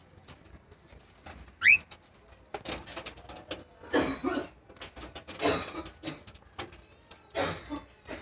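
Cockatiel giving one short rising whistle, then several harsh, scratchy chattering calls, over faint scattered clicks.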